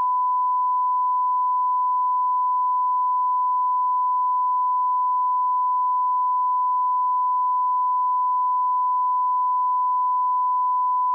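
Steady 1 kHz sine-wave test tone at −18 dB line-up level, one unbroken pitch at constant loudness.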